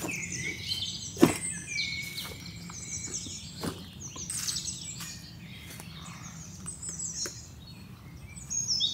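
Songbirds chirping and singing in quick repeated calls, with a sharp click about a second in and a fainter knock a couple of seconds later.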